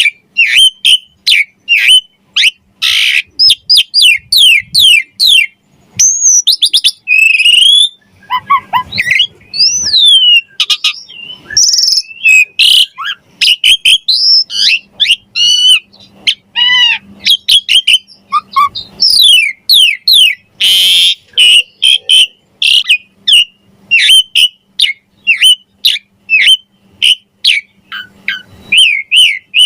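Asian pied starling singing a loud, varied song: quick down-slurred whistles, several a second, broken by warbles, a few harsh rasping notes and some lower whistles.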